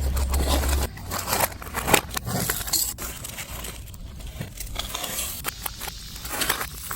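A quick run of clicks, scrapes and crinkling, like hands handling cooking gear and packaging.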